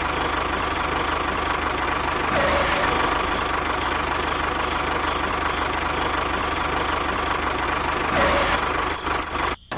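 A small motor running steadily with a fast, even pulsing rattle, cutting out abruptly near the end.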